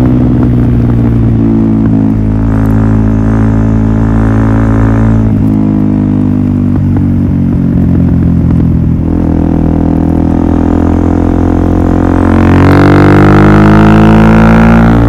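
Suzuki DR-Z400SM single-cylinder four-stroke engine running through a Yoshimura full exhaust system, loud, with the revs shifting: they dip about two-thirds of the way through, then climb sharply and hold high near the end.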